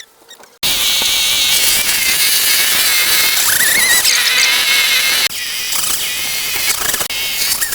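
Loud mechanical noise, a hissing rush with a wavering high whine, starting abruptly under a second in, dropping off suddenly about five seconds in and then carrying on.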